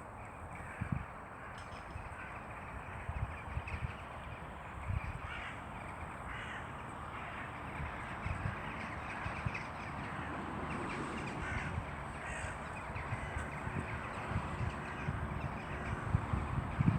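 Crows cawing several times over steady outdoor background noise, with irregular low thuds.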